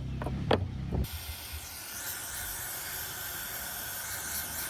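A few clicks, then about a second in a steady pressurized spray hiss starts and runs for about four seconds: a clogged ATV carburetor passage being sprayed or blown through to clear it.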